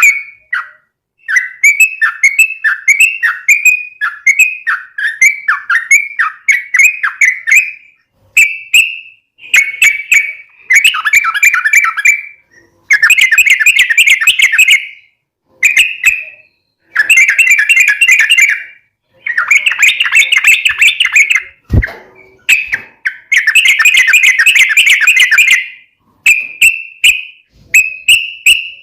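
Yellow-vented bulbul (trucukan) singing its long, rapid song, used as a lure call. It starts as a string of short bubbling notes about two a second, then runs into dense rippling phrases of one to three seconds separated by short pauses. A single low thump sounds about two thirds of the way through.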